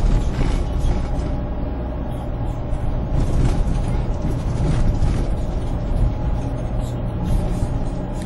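Steady engine hum of a moving road vehicle in city traffic, with an irregular mechanical rattling and clicking over it.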